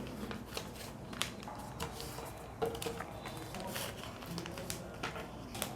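A sheet of paper being folded and creased by hand into a paper boat: irregular soft rustles, crinkles and small taps.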